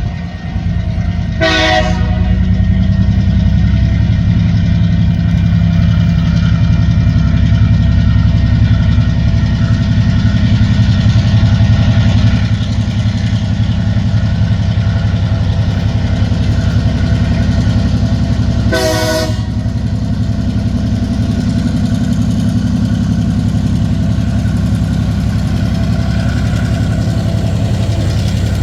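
TasRail TR class diesel-electric locomotives pulling a train up a grade, their engines working hard with a steady, loud low drone. Two short horn blasts sound at the level crossing, one about a second and a half in and another about 19 seconds in.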